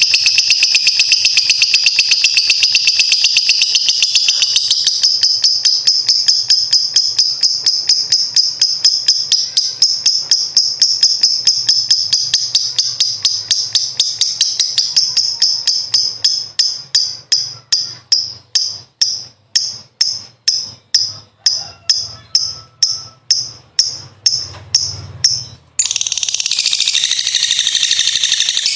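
Lovebird's long, high-pitched rattling 'ngekek' trill. It runs unbroken for about fifteen seconds, then breaks into separate rattles about two a second, stops for an instant, and rolls on unbroken again near the end.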